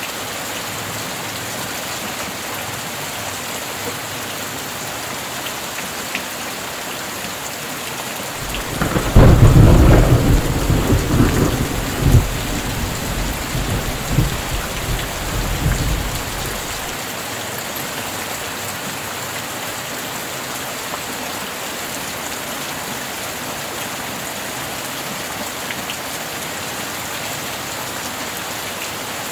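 Steady heavy rain hissing, with a thunderclap about a third of the way in that rolls and rumbles for several seconds, cracks once more, then dies away back into the rain.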